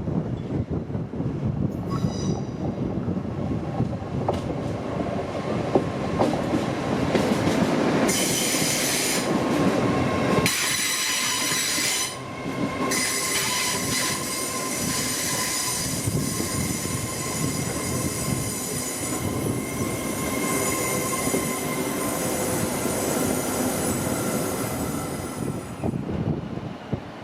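A train running on the rails, with a high, multi-toned metallic wheel squeal that sets in about eight seconds in and carries on over a steady rumble until shortly before the end.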